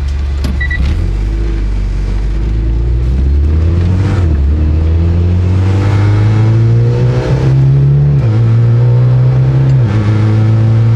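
Mitsubishi Lancer Evolution X's turbocharged 2.0-litre four-cylinder accelerating hard, heard inside the cabin. The engine note rises in each gear and drops at each quick upshift of its twin-clutch gearbox, about four and eight seconds in, as it climbs from first to fourth.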